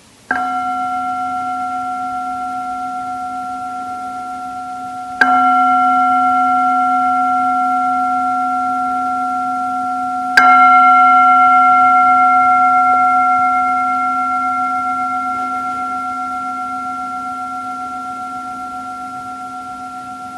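A meditation bell of the singing-bowl kind, struck three times about five seconds apart. Each stroke rings on with a low hum under several clear higher tones, wavering slightly as it slowly fades.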